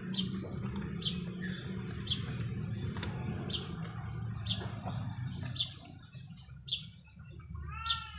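A small bird chirping repeatedly, with a short sharp chirp about once a second and a longer call near the end, over a low steady background hum.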